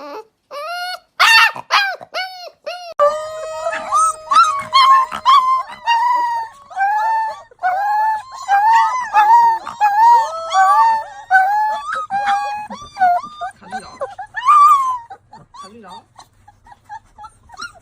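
Several young puppies whimpering and crying: many short squeals that rise and fall in pitch, sparse at first and then overlapping, with one long held whine starting about three seconds in.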